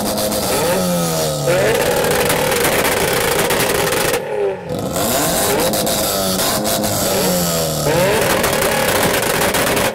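Modified car engines revving hard at a rev battle, their pitch climbing and falling with each blip of the throttle, with a brief drop about four seconds in.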